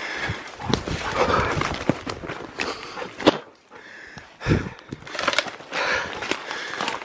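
Footsteps pushing through bush undergrowth, with leaves and branches brushing and crackling close by and a sharp snap about three seconds in.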